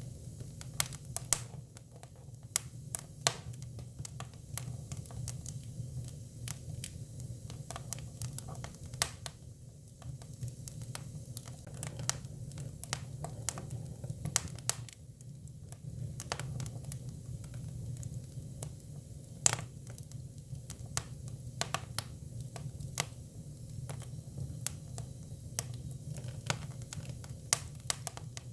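Hinoki cypress firewood burning, crackling and popping irregularly, with a few louder sharp pops, over a steady low rumble.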